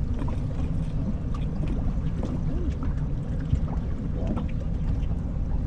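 Steady low rumble of a fishing boat on the river, with a few faint small clicks and knocks.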